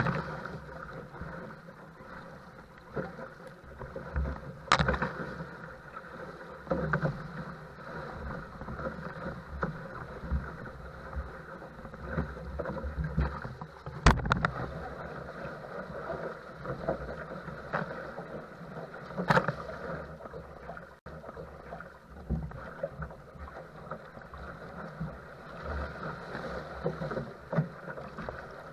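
Choppy, wind-blown water sloshing and splashing around a paddle craft, with three sharp slaps of water against it; the loudest comes midway.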